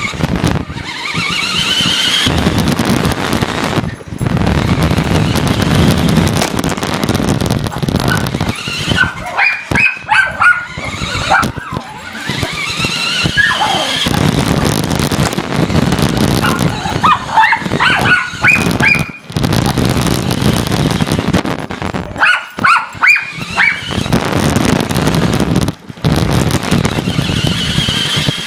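Remote-control car driving, recorded from on board: a steady rumble of the wheels over the ground, with the motor's whine rising in pitch as the car speeds up, near the start, around the middle and near the end.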